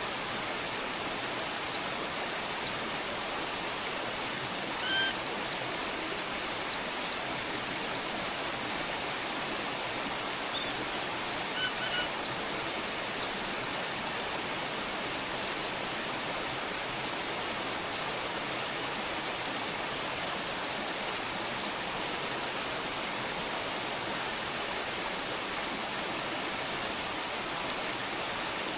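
Steady rushing noise throughout, with several short bursts of thin, high, rapid bird chirps in the first half.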